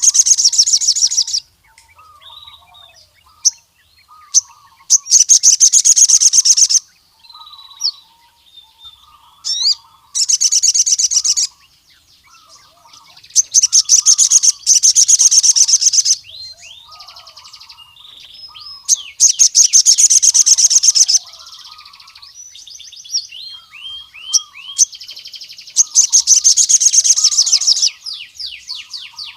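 Male crimson sunbird singing: six loud, rapid, very high-pitched trills of one and a half to two and a half seconds each, separated by short sharp chirps, over a softer, lower chirping that keeps repeating.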